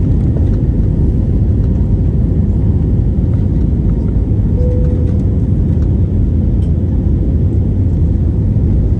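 Airliner cabin noise: a loud, steady low rumble of jet engines and airflow heard from inside the passenger cabin.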